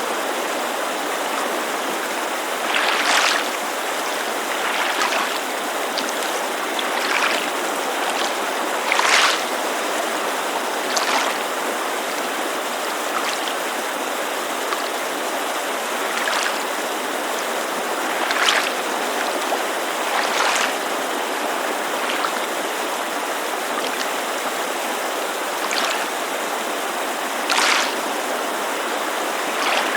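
Lake water lapping against the shore in short, irregular splashes every second or two, over the steady white-noise rush of a creek.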